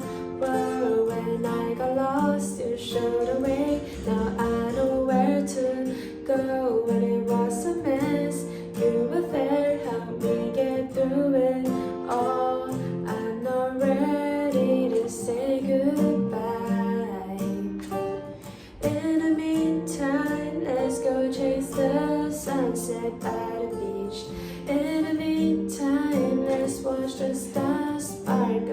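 Song with a woman singing over plucked and strummed acoustic guitar.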